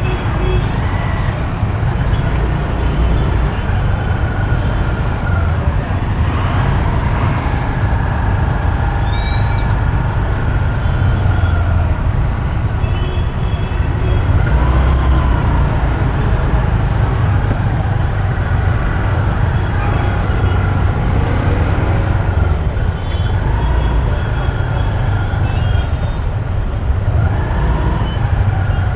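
Motorbike ride in city traffic: a steady loud rumble of the bike and surrounding vehicles, with a few short horn toots.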